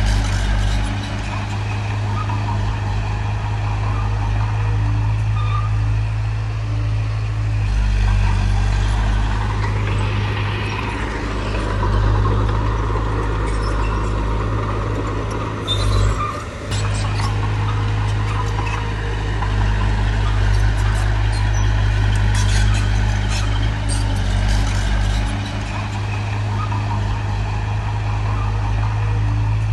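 Heavy construction machinery's diesel engine running steadily under load, with scattered metallic clanks and rattles. The engine briefly dips and drops out about halfway through.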